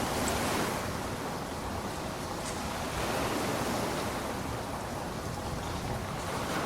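Steady rain falling: an even hiss with gentle swells in level and a few faint drop ticks.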